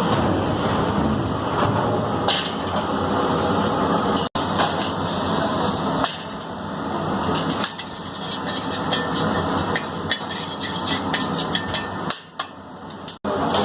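Tomatoes frying in a pan: a steady sizzle with many sharp clicks and knocks through it, broken off abruptly twice.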